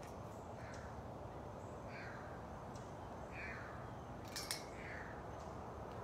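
A bird calling repeatedly outdoors, short falling calls roughly every second or so, over a steady low background rumble, with a couple of sharp clicks a little after four seconds in.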